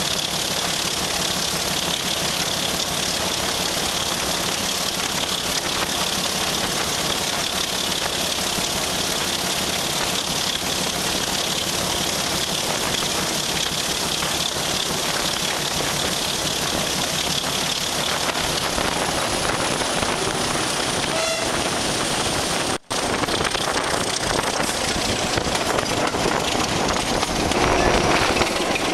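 Train hauled by a BR Class 26 diesel locomotive on the move, heard from a carriage window close behind the locomotive: a steady, loud rush of wheel and running noise. It breaks off for an instant about three-quarters of the way through and grows louder near the end.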